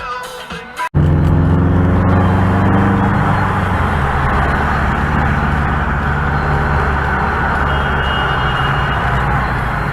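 Steady engine drone and road noise of a moving vehicle, cutting in abruptly about a second in; the engine pitch eases down slightly over the next couple of seconds, then holds.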